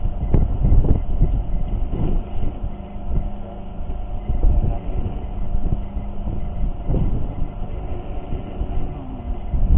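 A boat's motor runs at a steady drone, with irregular low thumps and rumbling from the hull riding heavy waves.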